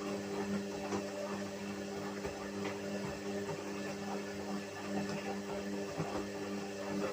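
Whirlpool washing machine running: a steady motor hum with several held tones, with light clicks and rattles over it.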